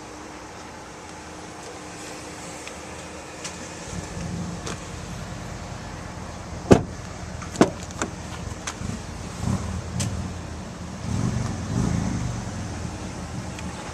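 Handling noises inside a Ford F-150 pickup's cab: a few sharp clicks and knocks, the loudest a little before the middle, over a low rumble that swells twice near the end.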